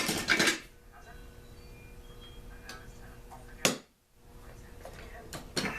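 Metal tools and parts handled on a workbench: a short clatter at the start, then a few sharp single clicks, about three seconds in and near the end, over a faint steady hum.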